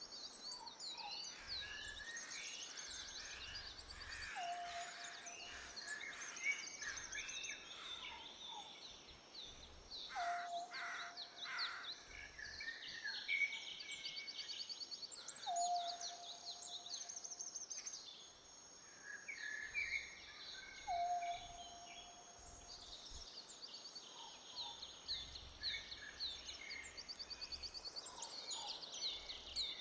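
Bird chorus: many birds chirping and trilling over each other, with a short lower call repeating about every five to six seconds.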